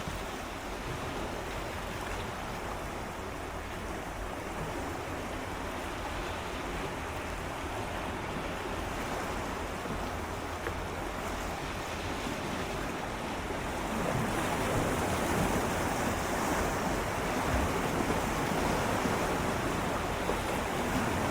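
Gentle sea waves swirling and lapping against shoreline rocks, a continuous wash of water that swells louder about two-thirds of the way through.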